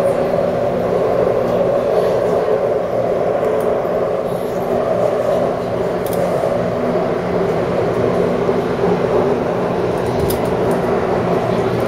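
Refurbished Taipei Metro C301 train running between stations, heard from on board: a steady rumble of wheels on rails with a steady low hum underneath.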